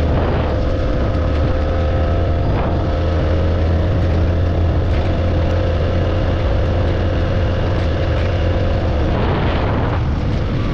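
Motorcycle engine running steadily while being ridden, with a strong low rumble and a steady engine tone; a brief swell of noise comes about nine seconds in.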